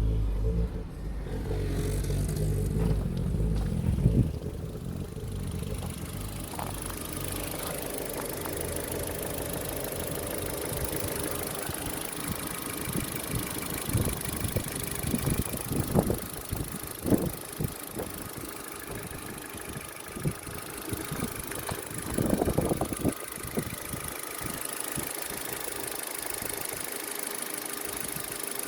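Ford Focus II's engine idling, deeper and louder for the first four seconds or so. Scattered clicks and knocks come through it from around the middle on.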